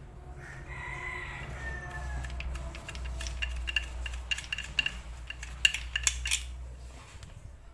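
Metal tools and fittings clinking and rattling as they are handled, many quick sharp clicks with a metallic ring in the middle of the stretch, over a steady low hum.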